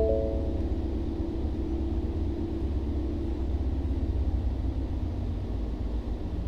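2017 Mustang GT's 5.0 Coyote V8 running at a steady idle on the dyno, a low, even rumble with no revving. A short ringing tone fades out right at the start.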